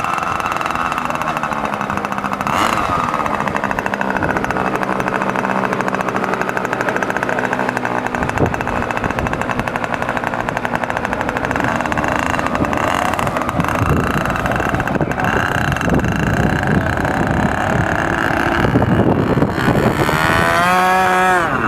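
Engine of a radio-controlled model warplane running steadily at a high pitch, with wind rumbling on the microphone. Near the end the engine pitch sweeps down and back up.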